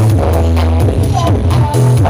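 Loud electronic dance music with a heavy bass line and a steady beat, played through a big carnival sound system ('horeg' rig).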